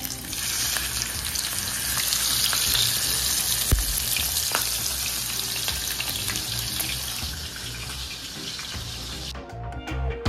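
Fish frying in hot oil in a pan: a loud sizzle that starts suddenly as the fish goes in, then slowly dies down. It stops about a second before the end.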